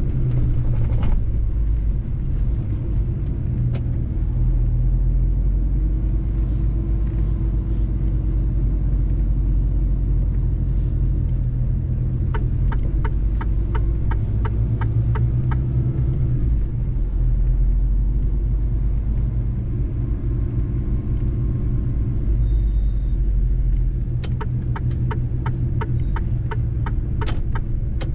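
Mercedes-Benz truck driving, its engine and road noise making a steady low rumble. Twice, a run of regular ticks sounds over it, about three a second, once in the middle and again near the end.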